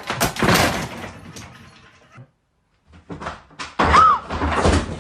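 A run of knocks and bangs, broken by a short gap after about two seconds, with a brief cat meow about four seconds in.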